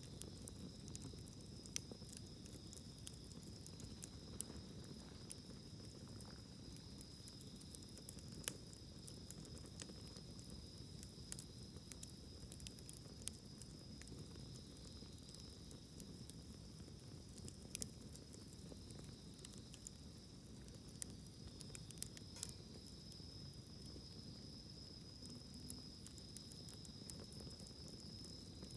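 Campfire of burning wood crackling faintly in a fire-pit grill, with scattered sharp pops every second or so. A steady high-pitched insect trill and a low rumble run underneath.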